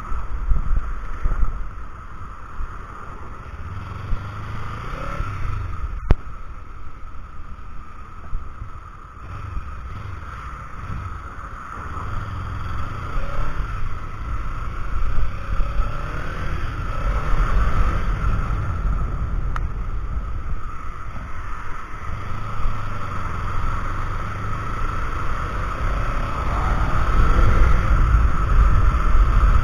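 Wind buffeting a cheap action camera's microphone while riding a Kawasaki Ninja 300, with the engine's note faintly rising and falling underneath. There is a sharp click about six seconds in and another near twenty seconds, and the wind gets louder near the end.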